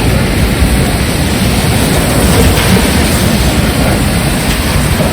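Heavy rain and strong wind, with wind buffeting the microphone: a loud, steady rushing noise.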